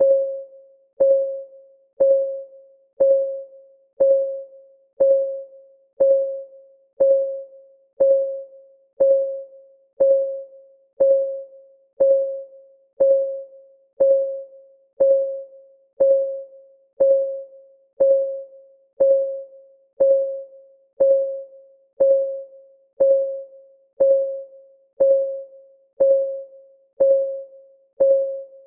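Countdown timer's clock-ticking sound effect: one tick every second, each a click with a short ringing note that dies away, all alike.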